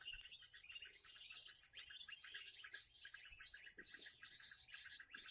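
Faint outdoor chorus of small birds chirping over and over, with a steady high-pitched insect drone behind it.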